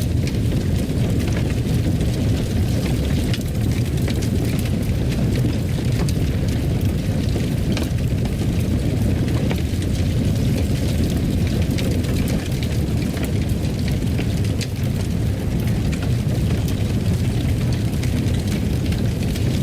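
Fireplace fire crackling: a steady low rumble of burning with frequent small pops and snaps scattered throughout.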